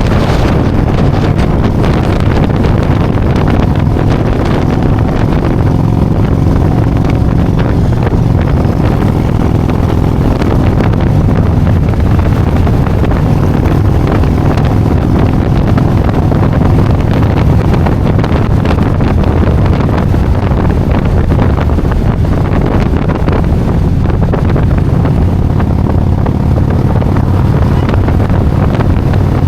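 Motorcycle engine running steadily at road speed under heavy wind noise on the microphone, its pitch drifting slightly up and down.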